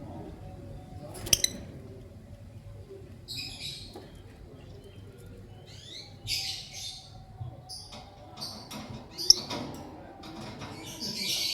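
Lovebirds chirping in scattered clusters of short, high, rough chirps, loudest near the end. There are two sharp clicks, one about a second in and another later.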